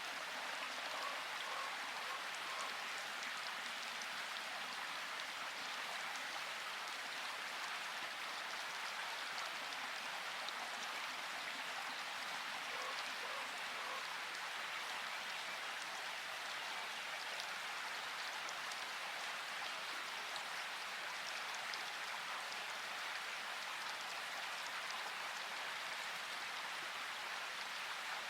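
Steady rainfall: an even, unbroken hiss of drops falling and pattering on surfaces.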